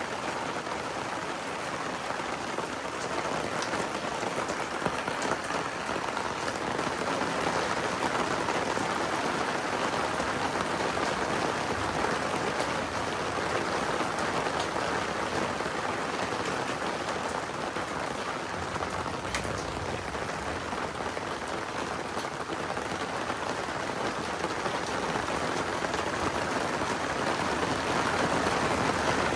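Steady heavy rain falling: an even hiss with scattered drop ticks.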